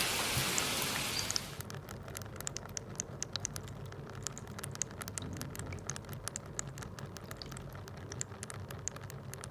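Water dripping from a rain-cloud aroma diffuser into its base, like light rain: a dense hiss for about the first second and a half, then many separate drips.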